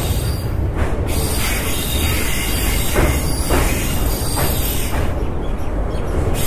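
Indian Railways Gujarat Superfast Express running at speed, heard from inside the coach: a steady rumble of wheels on the rails, with a few sharp clacks about a second in and again around three to four seconds in.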